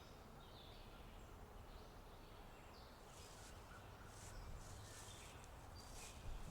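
Faint forest ambience: a steady low background hiss with a few short bird chirps in the first half, and soft swells of high hiss from about halfway that grow a little louder toward the end.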